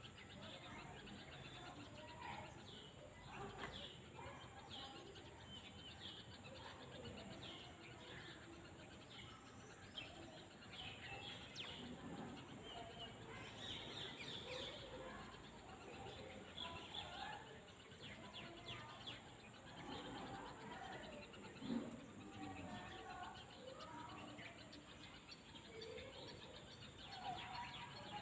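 Birds chirping faintly, many short calls scattered throughout, over a steady background hiss.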